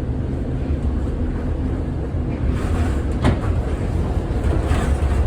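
1948 Philadelphia PCC streetcar running along the track with a steady low rumble, and one sharp knock a little over three seconds in, followed by some light rattling near the end.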